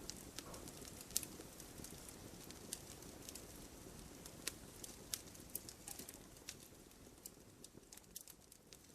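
Wood fire crackling softly in a fireplace: irregular sharp pops and snaps from the burning logs over a low, steady hiss of the flames.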